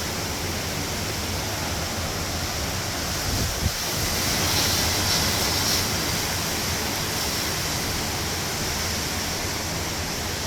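Hurricane wind and rain, a steady rushing noise that swells a little about four seconds in, with one brief knock just before the swell.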